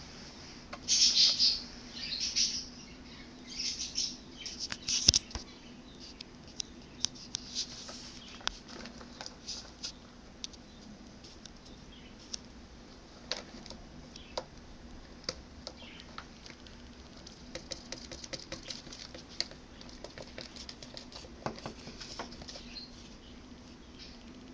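Baby birds fluttering their wings in several loud flurries in the first five seconds, then many small sharp taps and scratches as they move about.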